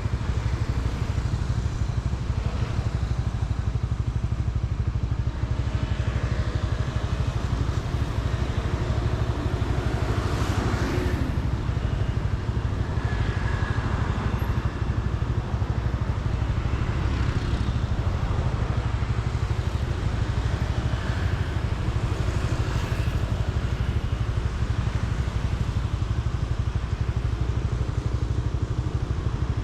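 Motorcycle riding through city traffic: a steady low rumble of engine and road, with other vehicles passing now and then, the loudest about ten seconds in.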